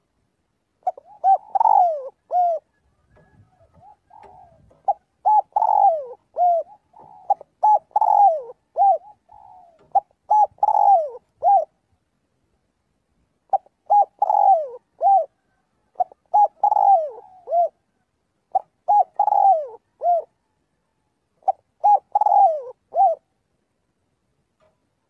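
Spotted dove cooing: repeated phrases of several short coos, each note falling in pitch, about every two to three seconds, with a pause about halfway through.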